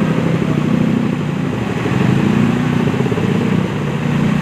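A vehicle engine running steadily close by, with a fast low firing pulse and no change in speed.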